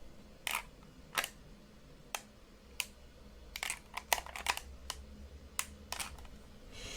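Small plastic buttons being clicked, a dozen or so sharp separate clicks at an irregular pace, with a quick cluster around the middle.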